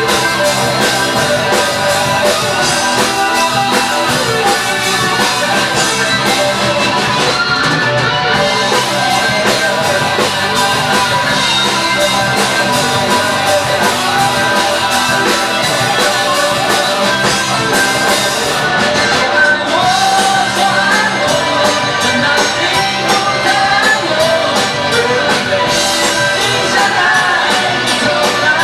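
Rock band playing live, with a voice singing over the instruments.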